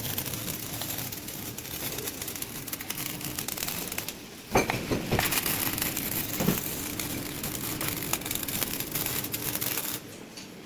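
MAG (gas metal arc) welding arc crackling steadily during a vertical-up capping pass. The arc breaks off briefly about four seconds in, restarts with a sharp pop, and stops again near the end.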